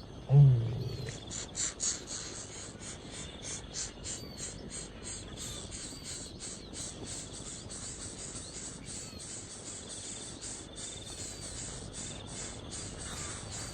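Insects chirping in a steady run of rapid high-pitched pulses, with a few faint bird chirps. A short low thump about half a second in is the loudest sound.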